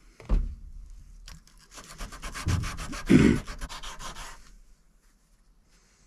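Hand sanding a hardened Damascus steel knife blade: fast back-and-forth scraping strokes, about eight a second, for nearly three seconds in the middle, with a thump just before and a couple of heavier knocks among the strokes.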